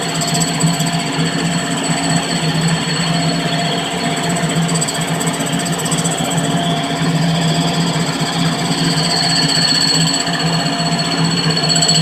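Grinding fixture running while grinding a cross-hole countersink held in an eccentric clamp: a steady motor hum with a steady high whine.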